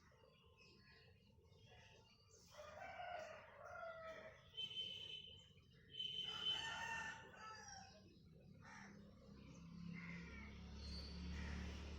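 A rooster crowing, two faint pitched calls of a couple of seconds each, among small chirps from other birds. A low hum comes in near the end.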